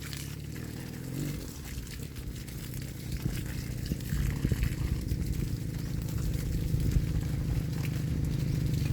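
Motorcycle engine running at low speed, growing steadily louder as it comes closer.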